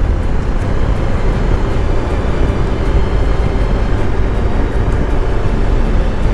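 BMW R 1250 GS Adventure's boxer-twin engine running steadily at cruising speed, with heavy wind rush over the microphone.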